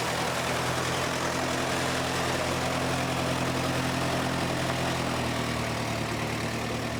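A vehicle engine idling steadily, a low, even hum with no change in speed.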